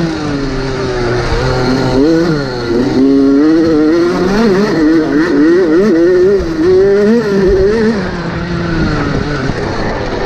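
Motocross bike engine revving hard and easing off again and again, its pitch rising and falling every second or so as the throttle is worked.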